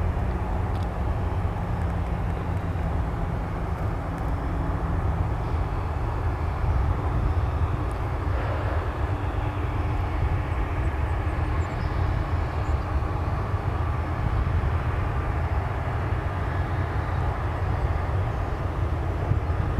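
Boeing 737-900 jet engines running at taxi power: a steady low rumble.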